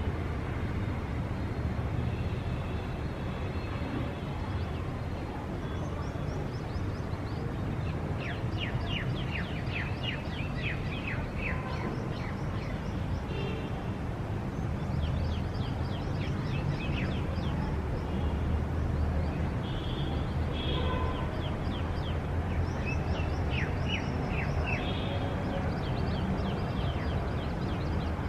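Small birds chirping in quick runs of short falling notes over a steady low rumble of distant city traffic.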